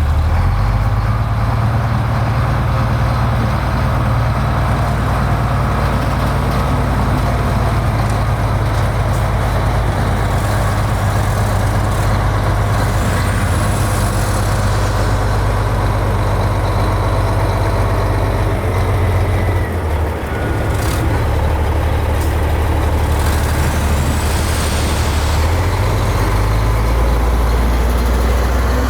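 Heavy diesel engine of earthmoving machinery running steadily with a deep drone, its note dipping and shifting briefly about twenty seconds in and again a few seconds later.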